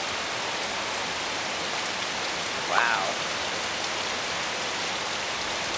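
Steady, even rush of creek water flowing over rocks.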